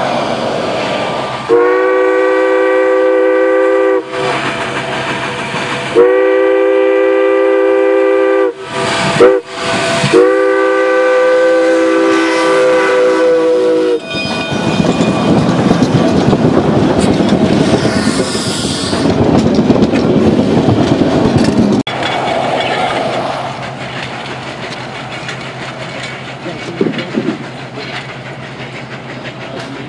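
Durango & Silverton steam locomotive's chime whistle sounding three long blasts, each a chord of several pitches. It is followed by the loud, noisy rush of the train passing, which cuts off suddenly about 22 seconds in and leaves a quieter rumble.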